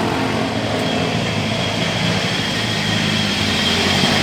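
A machine running steadily with a low hum, and a thin high whine that grows stronger about one and a half seconds in.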